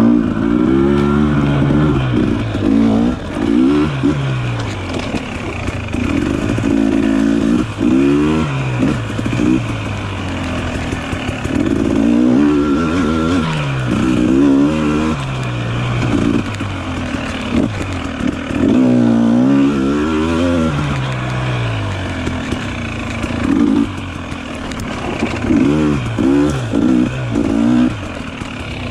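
Dirt bike engine revving up and down as it is ridden, the pitch climbing and dropping every second or two as the throttle opens and closes.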